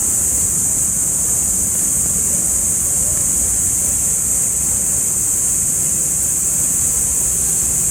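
Steady outdoor background noise: a low, even rumble with a constant high-pitched hiss over it, unchanging throughout, with no distinct events.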